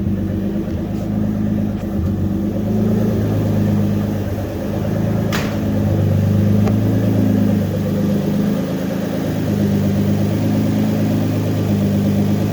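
Nissan 300ZX twin-turbo's 3.0-litre V6 (VG30DETT), tuned to over 520 wheel horsepower, idling steadily just after a cold start while it warms up. A single sharp click sounds about five seconds in.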